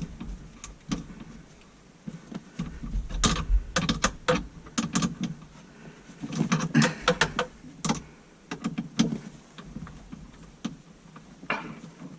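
Clicking and knocking of hand tools and fittings being worked while a dishwasher drain hose is fastened to a garbage disposal, in two busy runs of quick clicks.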